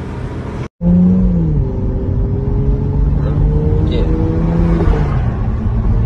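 Brief road and traffic noise, then after a sudden cut a Toyota Supra's engine heard from inside the cabin while driving, its pitch easing down slightly at first and then holding steady revs.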